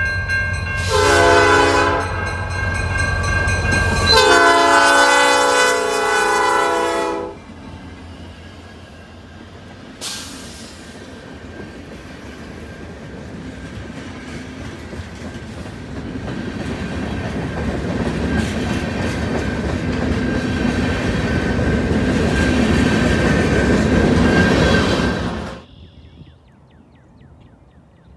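Diesel freight locomotive's air horn sounding a chord twice, a short blast about a second in and a longer one lasting about three seconds, over the rumble of its engine. Later, a freight train rolls past, its engine and wheel noise growing louder before cutting off suddenly.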